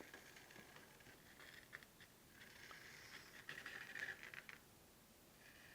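Faint scratching of a drawing tool on a canvas as feather outlines are drawn in quick strokes, mostly between about one and a half and four and a half seconds in.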